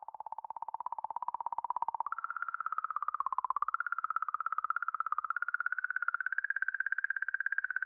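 A NASA planetary space sound: radio waves recorded by a spacecraft and turned into audio. It is a wavering, whistle-like electronic tone with a rapid pulsing flutter, and it jumps up in pitch about two seconds in.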